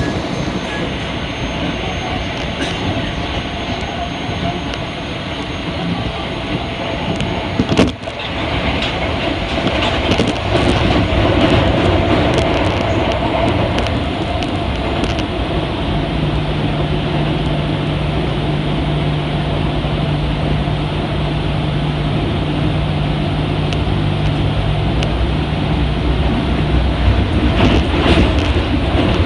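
Running noise heard inside a Kita-Osaka Kyuko 8000-series subway car with Toshiba IGBT-VVVF drive: steady wheel and motor noise, with a sharp knock about a quarter of the way in. A steady low hum sets in around the middle and stops shortly before the end.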